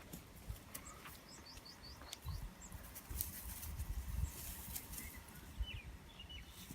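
A small bird chirping: a quick run of five or six short, high, falling notes about a second in, and a few more chirps near the end. Low rumble and scattered clicks lie under it.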